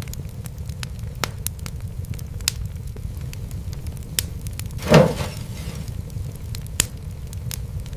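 Wood fire in a fireplace crackling, with scattered sharp snaps over a steady low rumble of the flames. About five seconds in comes one louder, fuller pop, the loudest sound here.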